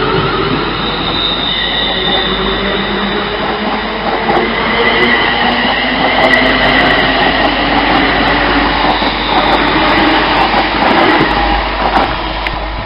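Scottish Class 380 electric multiple unit running past or pulling away, a loud steady rush of wheels on rail mixed with whining traction-motor tones that shift slowly in pitch.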